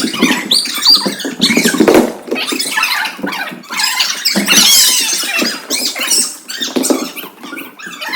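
A group of children squealing and calling out over one another, many high voices overlapping in an echoing room.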